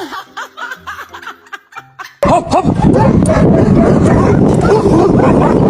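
A dog barking, starting suddenly and very loud about two seconds in.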